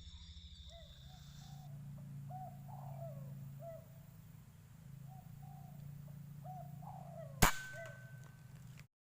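Spotted dove cooing in short repeated phrases, then a single sharp air-rifle shot about seven and a half seconds in.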